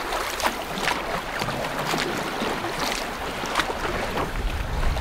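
Water splashing and lapping around a canoe in a choppy lake, with short irregular splashes over a steady rush of wind on the microphone.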